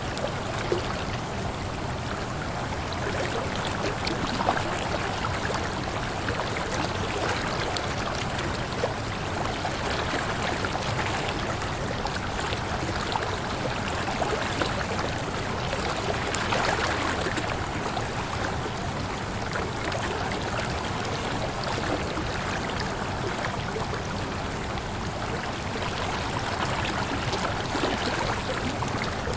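Waterfall: water falling and splashing in a steady, dense rush, with small splashes flickering through it.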